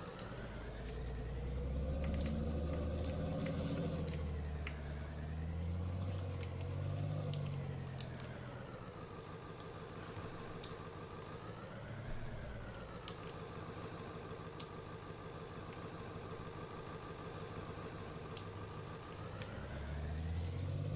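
Vehicle engine running while driving, its pitch rising and falling as the speed changes, over a low rumble, with a few faint clicks.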